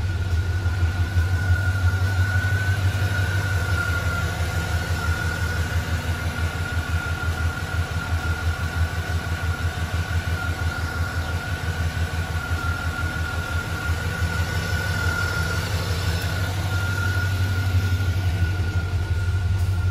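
The 1996 Chevrolet Impala SS's LT1 5.7-litre V8, fitted with an aftermarket intake and exhaust, idling steadily with a light V8 rumble. A thin, steady whine sits over it.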